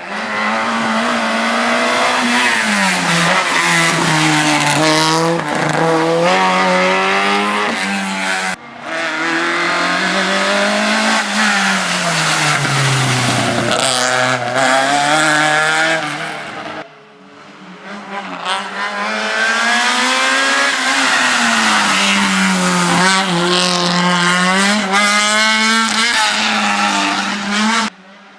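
Race car engine at high revs, its pitch repeatedly rising and falling as it accelerates and lifts off. The sound breaks off suddenly twice and picks up again.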